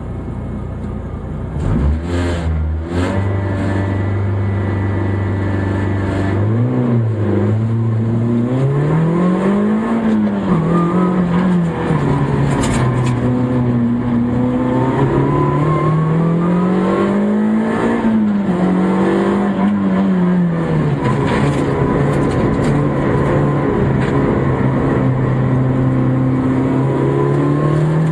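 Citroën Saxo rally car's four-cylinder engine heard from inside the cabin: a few blips of the throttle, then held at steady revs, then from about six seconds in climbing and falling again and again as the car accelerates and slows through the slalom.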